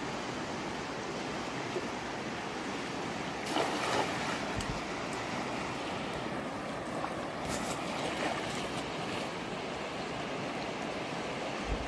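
Steady rush of a fast-flowing river, with a brief louder burst about three and a half seconds in and another shorter one near the middle.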